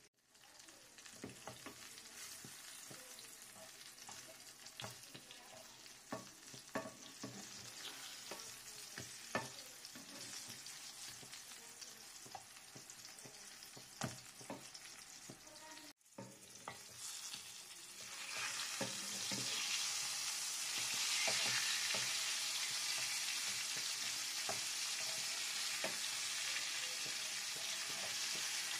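Aubergine slices shallow-frying in hot oil in a nonstick pan: a steady sizzle with scattered sharp pops and clicks. The sizzle grows louder about two-thirds of the way through.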